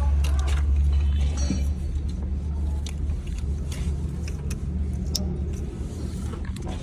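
Car engine running at a steady idle, a constant low hum, with scattered light clicks and knocks over it.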